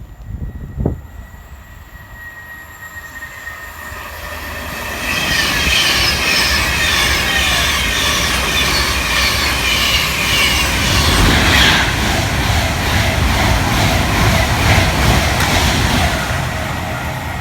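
A train passing at speed on the main line. It comes in with a thin steady high tone and rising rail noise, is loud for about ten seconds with wheels on the rails, then begins to fade near the end.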